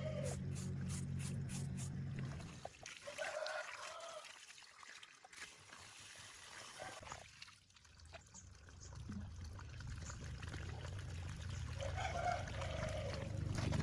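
Water trickling and pouring, with a low steady hum that drops away for several seconds in the middle and comes back toward the end.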